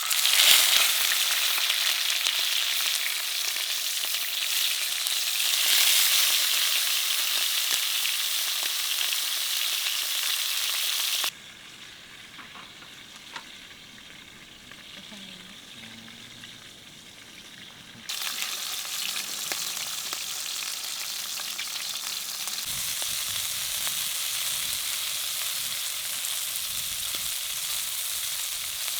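Food sizzling and frying in a hot pan, a steady crackling hiss. It drops abruptly to a much quieter sizzle at about 11 seconds and comes back louder at about 18 seconds.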